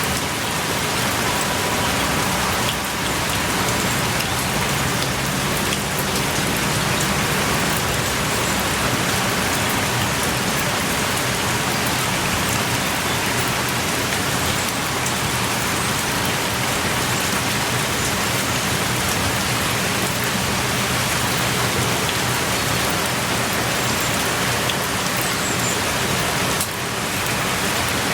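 Steady heavy rain pouring, a dense even hiss of drops on surfaces.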